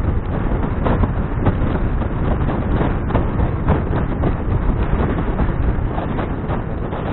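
Wind buffeting the action camera's microphone: a steady low rushing rumble broken by frequent irregular thumps.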